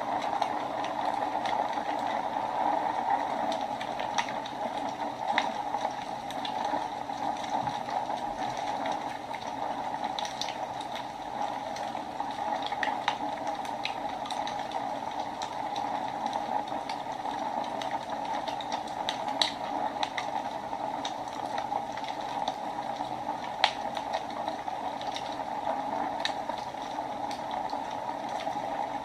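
Fire burning in a fireplace, with irregular sharp crackles and pops over a steady hiss.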